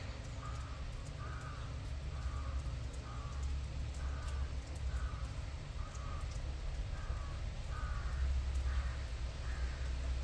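A bird calling over and over in short, evenly spaced calls, about three every two seconds, over a steady low rumble that grows louder near the end.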